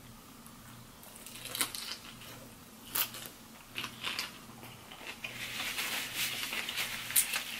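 Close-up chewing of a fried chicken tender: a few separate sharp, crunchy clicks, then a denser crackly crunching from about five seconds in.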